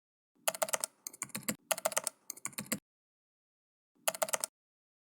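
Runs of rapid clicks like keys being typed: a long run in the first three seconds and a short burst about four seconds in.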